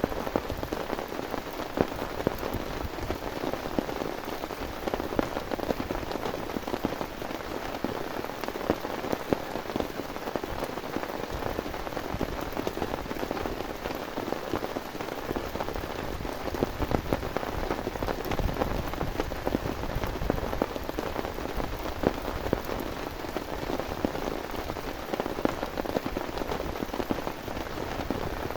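Heavy rain falling steadily, a dense hiss of countless drops with many separate drop hits on a surface.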